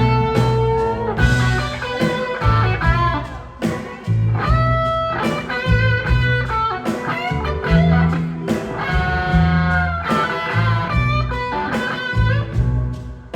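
Blues-rock band playing live: an electric guitar leads with bent, sliding notes over bass guitar and drums.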